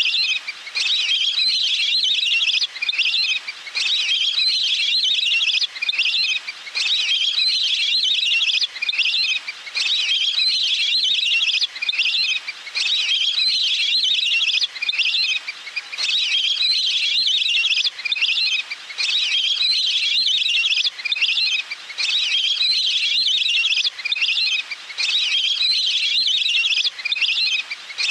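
Recorded waterfowl calls (นกเป็ดน้ำ) played as a bird-luring call: fast, high chirping phrases broken by short gaps every second or two, repeating over and over like a loop.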